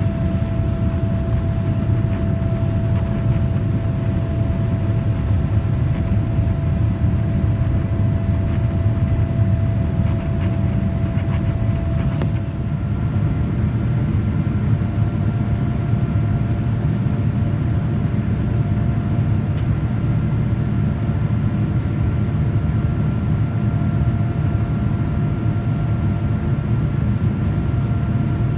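Steady jet cabin noise of a Boeing 787-9 in motion: a deep even rumble of engine and airflow with a thin steady engine tone that shifts to a higher pitch about halfway through.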